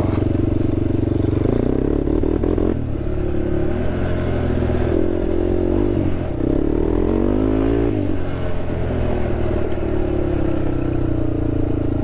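Honda TRX sport quad's single-cylinder engine running hard off-road, revs rising and falling with the throttle. There is a steady climb in pitch from about five seconds in that drops off sharply near eight seconds.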